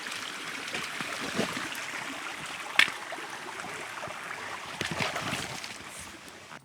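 Stream water running steadily, with a sharp click about three seconds in.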